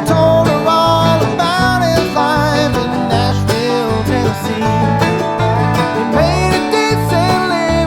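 Bluegrass band music with banjo and guitar over a steady bass line.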